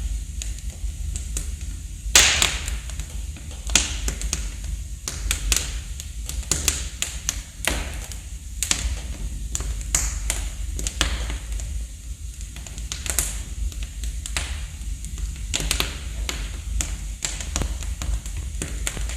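Wood fire burning in a fireplace, crackling with irregular sharp pops and snaps over a steady low rumble; the loudest pop comes about two seconds in.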